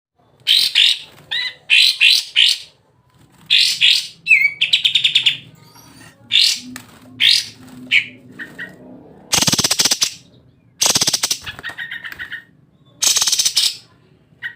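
White-shouldered triller (kapas tembak) singing energetically: a run of sharp high chirps and short whistled phrases, then three loud rasping trills of rapid repeated notes in the second half.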